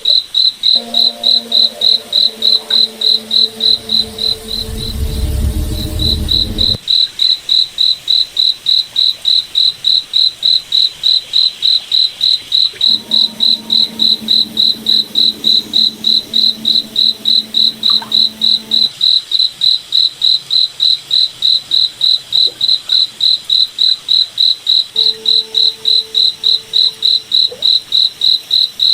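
Cricket chirping steadily, about three high-pitched chirps a second. A faint low hum comes and goes beneath it, and a brief low rumble sounds about four to seven seconds in.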